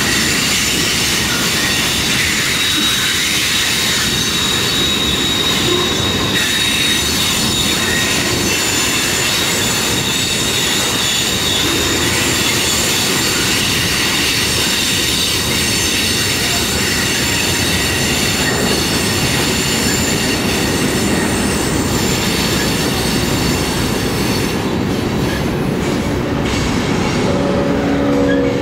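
Freight cars rolling past on a curve, steel wheels squealing against the rail in high steady tones over a continuous rumble and clatter from the wheels on the track.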